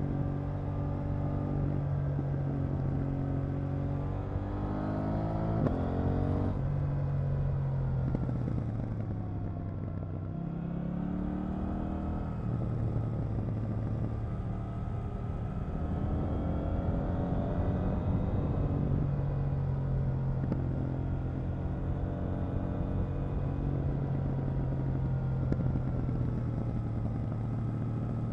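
KTM 890 Duke R's parallel-twin engine under way: it revs up a few seconds in and drops back sharply at a gear change, rolls off with falling pitch, then picks up again and holds a steady pull.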